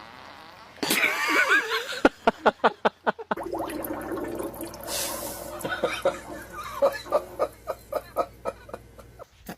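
People laughing in quick rhythmic bursts, in two runs with a pause between.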